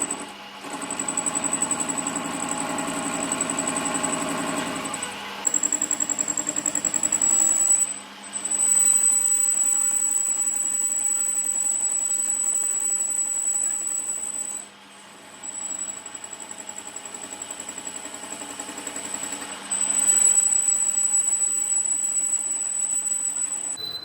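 A motorised workshop machine running with a steady high-pitched whine over a hum. The hum shifts and the sound dips briefly three times, about five, eight and fourteen seconds in.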